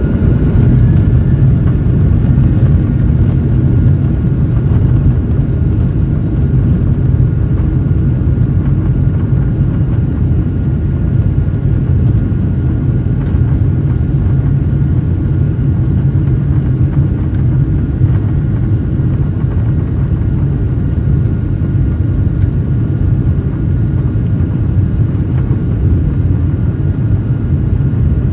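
Cabin noise inside a Boeing 737-800, its CFM56 jet engines and airflow making a loud, steady, deep rumble.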